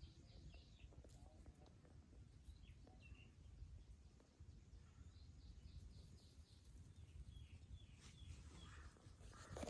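Faint outdoor birdsong: runs of quick, high chirps near the start and again around the middle, with a few scattered calls later, over a steady low rumble.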